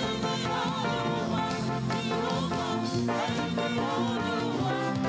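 Live church band music for a Yoruba cultural praise song, with some singing over the instruments.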